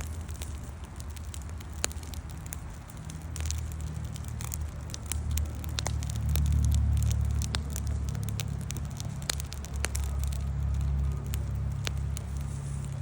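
Wood campfire crackling, with scattered sharp pops and snaps over a steady low rumble that swells for a couple of seconds in the middle.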